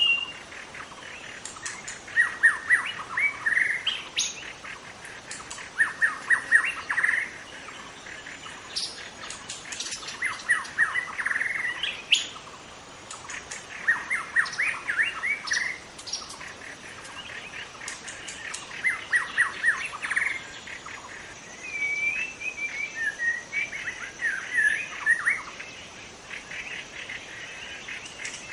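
A young white-rumped shama singing: short bursts of rapid chirping notes every couple of seconds, with a more warbling phrase about two-thirds of the way through.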